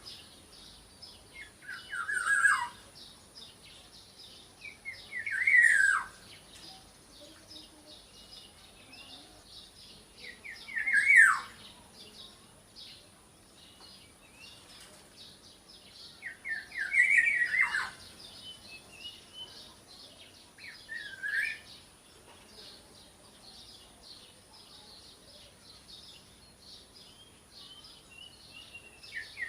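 Black-naped oriole (kepodang) calling: five short, loud phrases, each a quick run of notes sliding downward, spaced a few seconds apart, with faint high twittering between them.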